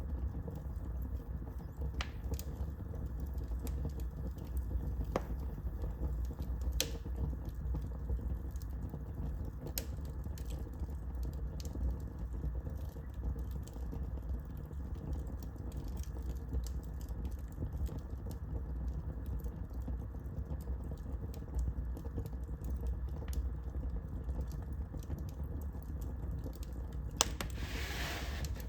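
Wood fire crackling in a fireplace: irregular sharp pops and snaps over a steady low rumble of flames, with a few louder pops. A brief louder hiss comes near the end.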